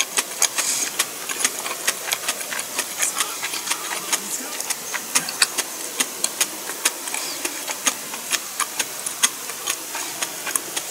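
Close-up chewing: moist mouth clicks and crunches as food is chewed with the mouth closed, several irregular clicks a second over a faint hiss.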